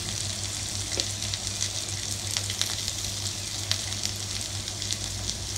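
Diced potato, aubergine and soaked chickpeas sizzling in mustard oil in a kadai, with turmeric powder just added: a steady hiss with scattered small pops and crackles over a low steady hum.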